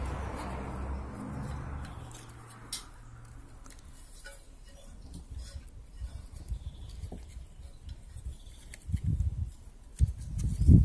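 Small clicks and rustling of wires and metal parts being handled while an old welding set is rewired. A hiss fades out over the first couple of seconds, and a few low knocks come near the end.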